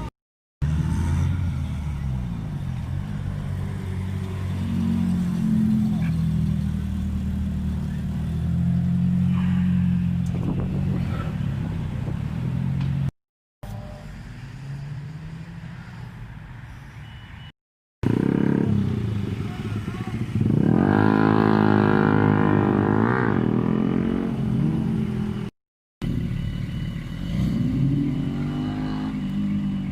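Car engines running and revving in several short clips separated by brief silences. The loudest is a rev that climbs in pitch about two-thirds of the way in, with people talking in the background.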